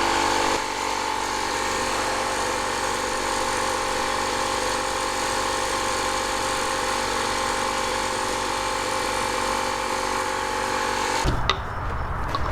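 A small electric motor's steady whine, which cuts off suddenly about eleven seconds in; a few sharp taps follow near the end.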